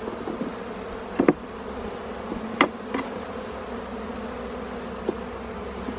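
Honey bees buzzing steadily around an opened hive during a frame inspection, with a few sharp clicks about a second, two and a half, and three seconds in.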